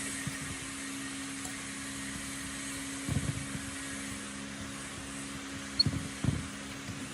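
A steady machine hum, with a few short low knocks about three seconds in and twice just before the end.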